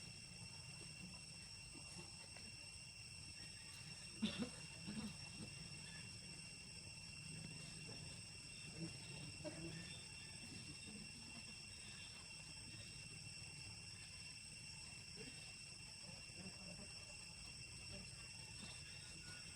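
Quiet forest background: insects shrilling in steady high tones over a low rumble, with a few faint short noises about four seconds in.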